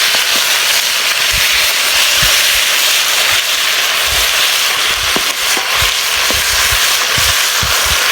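Hot oil sizzling steadily in a cooking pot over a campfire, with scattered pops and crackles.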